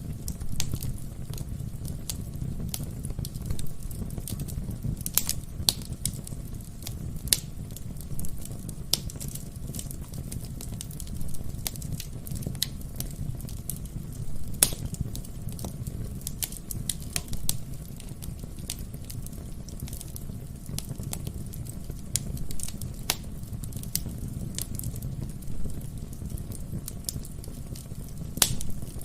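Wood fire burning in a fireplace: a steady low rumble of flame with irregular sharp crackles and pops from the burning logs, a few louder pops scattered through.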